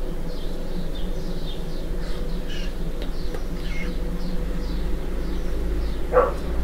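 Birds chirping: many short, quick, falling chirps over a steady low hum, with one louder, lower call about six seconds in.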